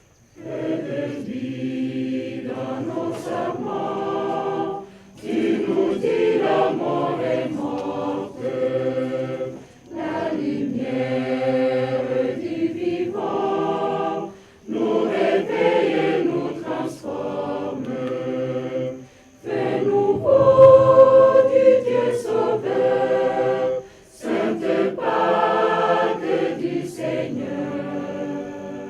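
A choir singing a hymn in several voice parts, in phrases of a few seconds broken by short pauses for breath.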